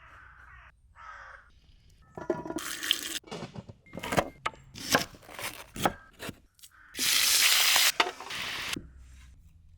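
Outdoor cooking sounds: a few sharp clatters and scrapes of utensils, then, about seven seconds in, a loud sizzle of frying that lasts close to two seconds. Two short calls are heard at the very start.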